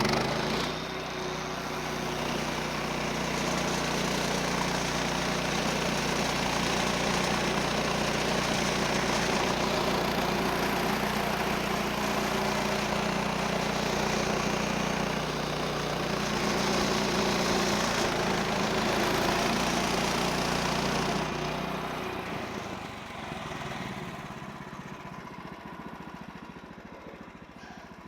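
Portable bandsaw mill's 14 HP Kohler engine at full throttle, driving the band blade through a log in a steady cut. About 22 seconds in, the level falls as the throttle is released, leaving a quieter idle.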